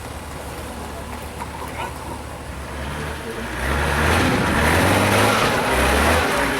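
Heavy off-road trial truck engine running at low revs, then revving harder about three and a half seconds in, growing louder as its pitch steps up and down under load.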